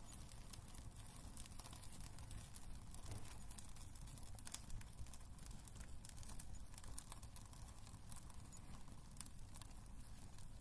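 Wood fire crackling in a fireplace: scattered sharp pops and snaps over a low steady rumble, with one louder pop a little before halfway.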